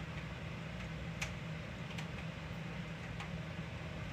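Steady low hum with an even hiss behind it, and three faint ticks spread through it.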